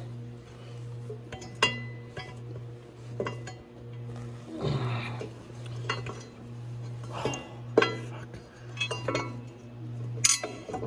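Metal hand tools and parts clinking and clanking in irregular knocks, some ringing briefly, over a steady low hum.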